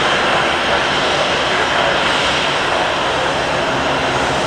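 Airplane engines running, a loud, steady, even noise with a faint low hum and no change in pitch or level.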